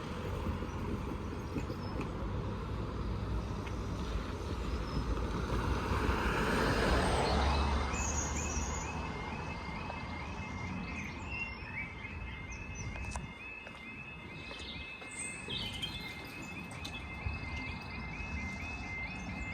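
A road vehicle passes the crossing, loudest about seven seconds in. About a second later the level crossing's audible warning starts: a repeating high electronic warble, several cycles a second, signalling that the crossing is closing for an approaching train.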